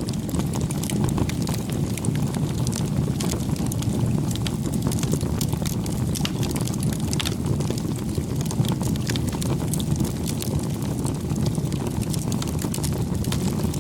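Campfire burning, with frequent small sharp crackles and pops over a steady low rush of flame.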